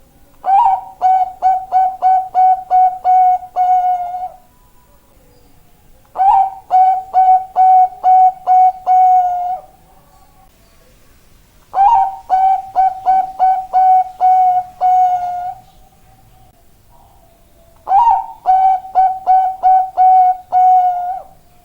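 Bangkok-strain zebra dove (perkutut) singing its cooing song. Four phrases come about six seconds apart, each a quick run of eight to ten clipped coos ending in a longer held note.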